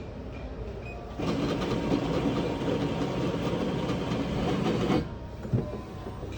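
Drink-bar coffee machine running, a loud steady mechanical whirr that starts about a second in and cuts off suddenly some four seconds later, followed by a single short knock.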